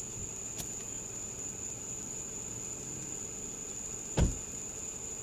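Steady high drone of crickets in the background, with a single dull thump about four seconds in.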